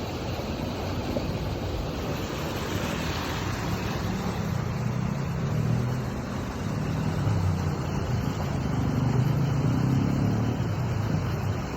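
Road traffic noise with a motor vehicle engine running close by, its low rumble growing louder through the second half.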